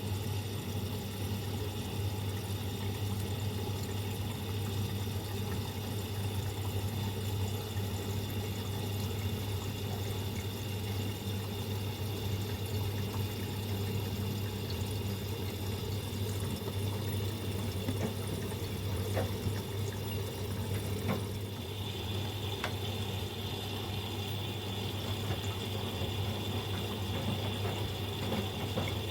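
Miele Professional PW 6065 Vario washing machine taking in water for its first rinse: a steady rush of water into the drum with a low hum. A higher steady whine joins about two-thirds of the way through.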